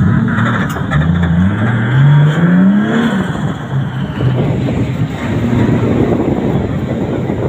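Drift car engine accelerating, its pitch climbing for about two seconds before dropping. It then carries on with a rougher, noisier running sound.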